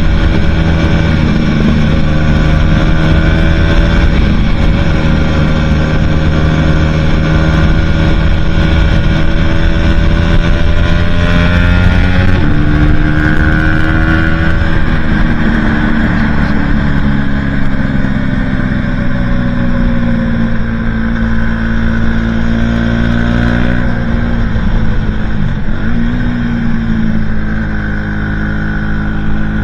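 Aprilia Tuono 125's single-cylinder four-stroke engine through a Leo Vince aftermarket exhaust with the catalyst removed, running steadily under load at speed. Its note climbs slowly for the first dozen seconds, then falls gradually as the bike eases off, picking up slightly again near the end.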